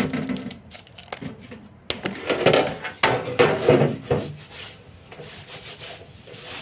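Hand scrubbing of a refrigerator part being washed: a run of irregular rubbing strokes, strongest in the middle and weaker near the end.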